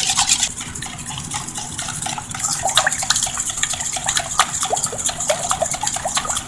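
Five raw eggs being beaten in a bowl: a utensil clicks rapidly against the bowl while the liquid egg sloshes and splashes.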